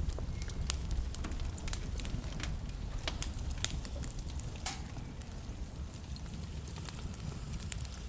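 Wood fire burning in a fireplace: a steady low rumble with frequent sharp crackles and pops from the burning logs, one louder pop about halfway through.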